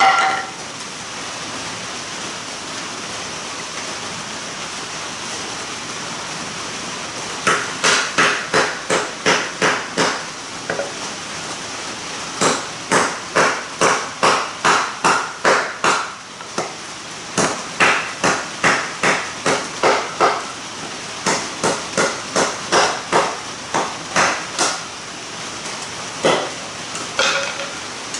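Runs of sharp, evenly spaced knocks, about three a second, each run lasting a few seconds, over steady rain.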